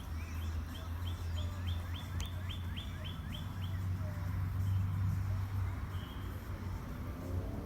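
A bird singing a quick run of about a dozen notes, each sliding down in pitch, over a steady low rumble.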